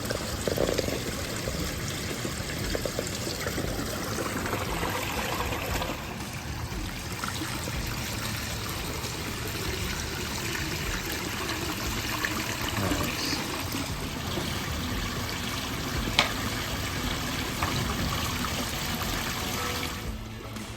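Water splashing and trickling steadily down a newly built pondless waterfall stream, fed by its recirculating pump with the valve opened all the way. The sound drops away shortly before the end.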